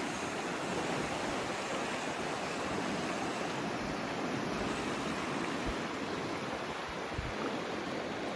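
Steady rushing noise of a mountain bike in motion, from wind over the microphone and tyres rolling on a dirt trail. A few low thumps come in the second half.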